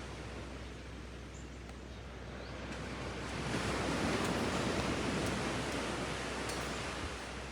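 Sea surf on a beach: a steady hiss of waves that swells about three seconds in as a wave washes up, then slowly eases off.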